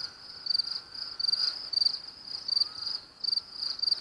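Crickets chirping in a steady, pulsing chorus, about three chirps a second. A faint held tone sounds under it for the first second and a half.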